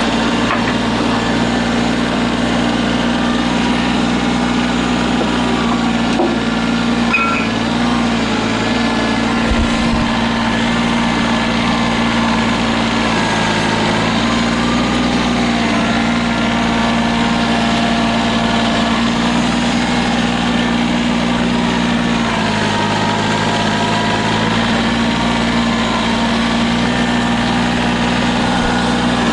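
Tractor engine running steadily while plowing snow, its pitch dropping briefly about halfway through and again for a few seconds near the end as the load changes.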